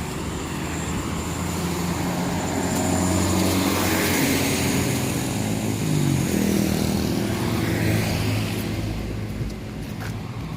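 A motor vehicle's engine passing on the road: a steady hum that builds, drops in pitch about six seconds in as it goes by, and fades near the end.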